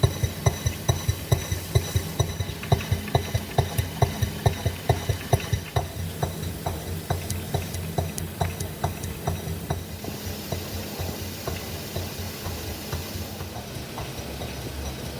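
Small model engine running at a steady beat of about three to four strokes a second, the beats loud at first and growing quieter after about six seconds.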